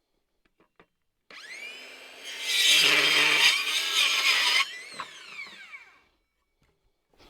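An electric saw spins up and cuts through a wooden stake for about two seconds, the loudest part, then winds down as the blade coasts to a stop.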